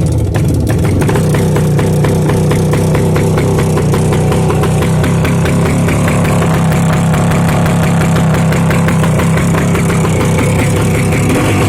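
Minsk motorcycle's two-stroke single-cylinder engine running through a straight-through exhaust (straight pipe), loud and steady, with a rapid, even string of exhaust pulses.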